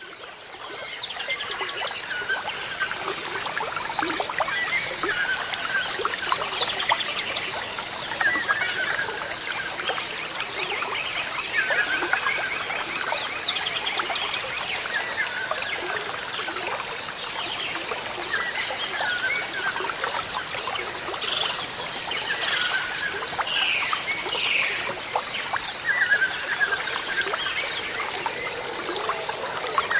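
Birds calling and singing, one short whistled phrase coming back every few seconds, over a steady high-pitched drone and the trickle of running water. The sound fades in over the first couple of seconds.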